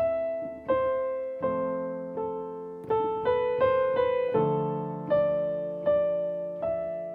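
Piano improvisation in A minor: sustained left-hand chords that change every few seconds, under a simple right-hand melody struck about one note every half second to second, quickening briefly in the middle.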